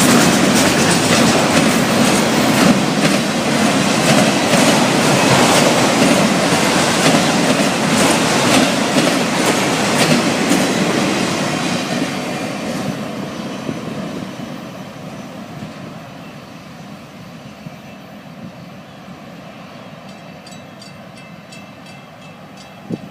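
Florida East Coast Railway freight train's cars rolling past, wheels clicking over rail joints. About halfway through the sound fades steadily as the train moves away, with one brief sharp knock near the end.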